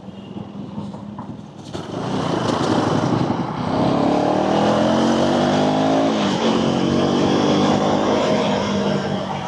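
Motorcycle engine accelerating, its pitch rising for a couple of seconds, dropping at a gear change about six seconds in, then pulling steadily, with wind rush over it.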